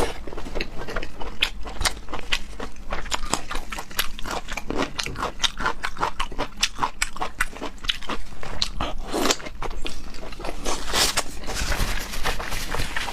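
Close-miked mouth eating sounds: biting and chewing food, a dense run of short, sharp wet clicks throughout.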